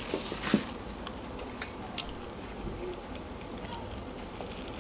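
Close-miked chewing and eating sounds of someone eating lasagna and garlic bread, with a sharp click about half a second in and faint scattered clicks after.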